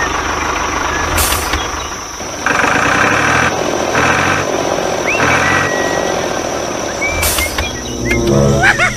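Truck engine running steadily, with three louder blasts in the middle and a few short high chirps over it.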